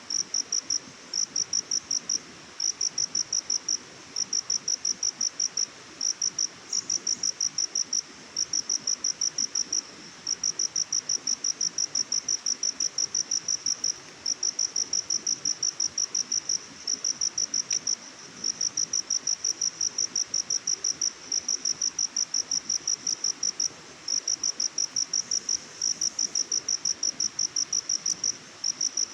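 An insect chirping in a fast, even rhythm of high pulses, in runs of a second or two broken by brief gaps, over a faint steady hiss of forest ambience.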